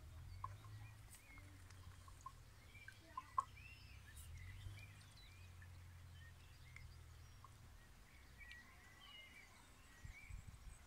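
Near silence outdoors: faint birds chirping in the background over a low hum, with a few light clicks and some soft taps near the end.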